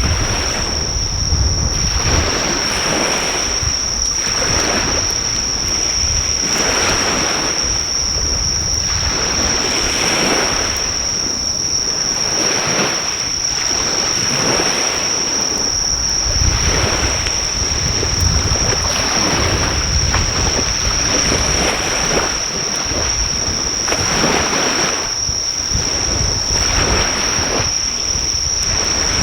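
Sea waves washing on the shore in repeated surges, with a continuous high-pitched insect trill over them and wind rumbling on the microphone at times.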